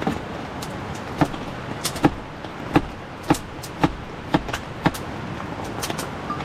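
A knife chopping on a cutting board, sharp knocks about two a second that stop near the end, over a steady hiss of heavy rain.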